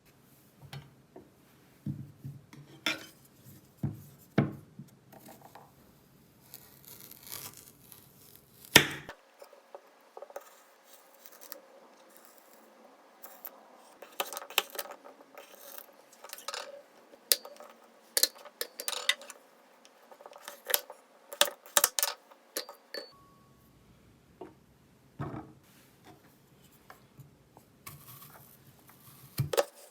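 Kitchen handling sounds: scattered clinks, taps and knocks of dishes, glassware and utensils being moved and used, in several short clips. The loudest is a single sharp knock about nine seconds in.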